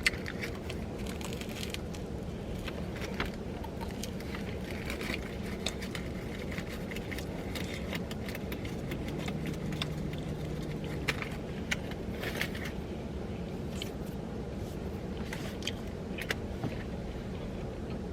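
Steady low hum of a car cabin, with scattered light crinkles and clicks of a paper food wrapper being handled.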